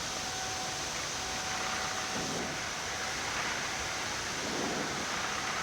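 Steady rushing noise in a Boeing 787 flight deck during taxi, with a faint steady hum running through it.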